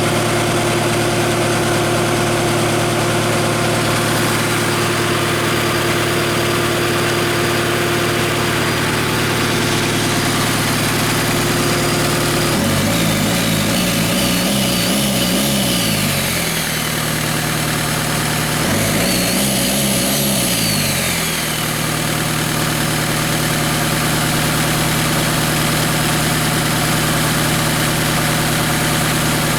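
Hyundai D4BH 2.5-litre four-cylinder turbodiesel idling steadily while its oil pressure is tested. It is revved up and let fall back twice, briefly, about halfway through.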